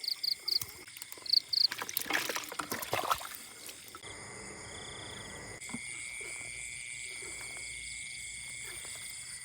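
Night chorus of frogs calling and insects trilling in a flooded field. There are short repeated chirps in the first second and a half, a burst of scuffling noise about two seconds in, and then a steady high-pitched drone.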